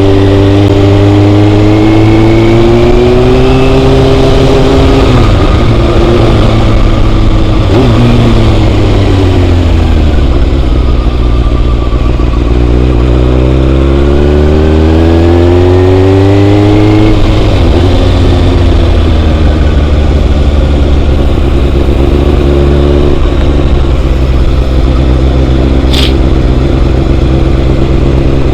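Motorcycle engine running on the move. Its pitch climbs and drops back several times as it accelerates through the gears, falls away as it slows, then climbs again, with a single sharp click near the end.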